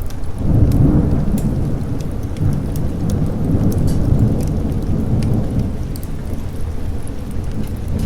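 A long roll of thunder swells about half a second in and slowly eases off, over steady rain. Sharp ticks of fireplace crackle run through it.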